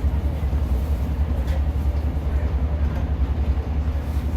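Class 150 diesel multiple unit under way, heard from inside the carriage: a steady low drone from its underfloor diesel engine mixed with the rumble of the wheels on the rails.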